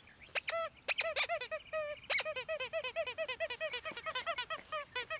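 Squeaky dog toy squeaked over and over as a puppy chews on it: a fast run of high, arched squeaks, about five a second.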